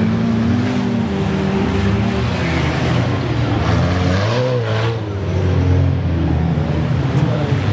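Old cars' engines running hard during a wreck race, several at once, with one engine's pitch rising and then falling about halfway through.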